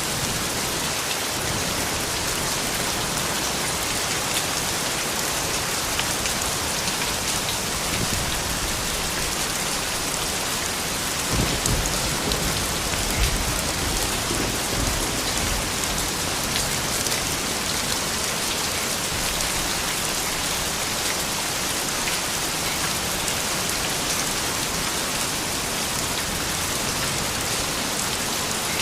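Steady rain falling and pattering on surfaces. A low rumble swells about eleven seconds in and fades after a few seconds.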